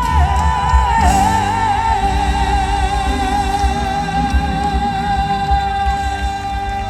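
Live gospel music: a female singer holds a long note with vibrato over the band, with a steady bass pulse.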